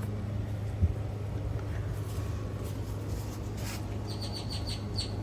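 A small bird chirping: a quick run of short, high notes, about seven a second, near the end, over a steady low hum and one soft thump early on.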